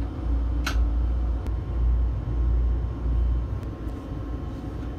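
Low rumble of a train heard from inside the driver's cab as it runs along snow-covered track. There is a single sharp click just under a second in.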